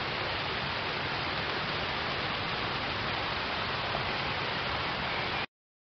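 Steady rain falling on pond water, an even wash of noise that cuts off abruptly about five and a half seconds in.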